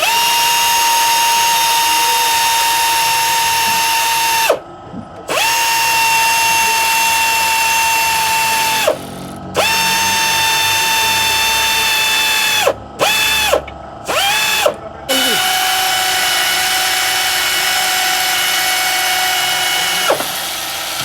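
Handheld power drill or driver running in several bursts of a few seconds each, each one spinning up to a steady whine and winding down. There are two brief blips about two-thirds of the way through, and the last longer run is a little lower in pitch, stopping shortly before the end.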